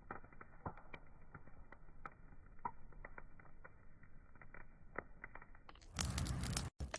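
Wood fire crackling, with irregular small pops and snaps over a low steady rush. Near the end a loud burst of hissing noise comes in for under a second and cuts off suddenly.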